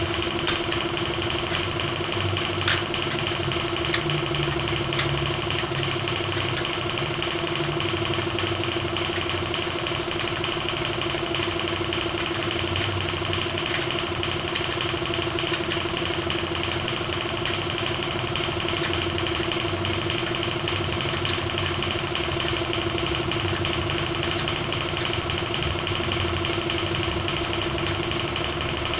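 A machine running with a steady, unchanging hum, with a few sharp clicks in the first five seconds.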